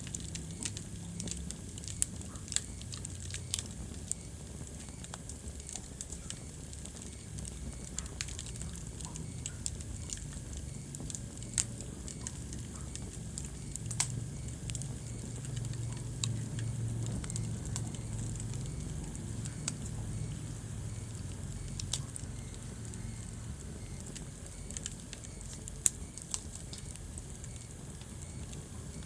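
Wood fire burning in a fireplace: a steady low rumble of flames with sharp crackles and pops scattered irregularly throughout, a few single pops standing out louder than the rest.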